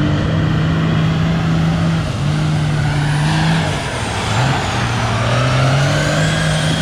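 Mega truck engine running hard, its note held steady, then dropping and climbing back in steps every second or two, with a fainter whine gliding up and down above it.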